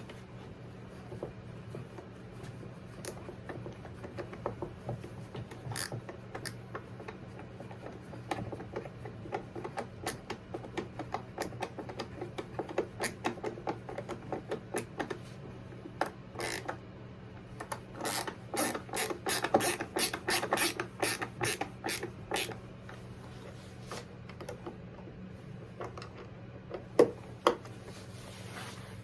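Mechanical clicking from a hand tool being worked, in quick runs of clicks at several a second, busiest about two-thirds of the way in, with two sharp knocks near the end. A steady low hum runs underneath.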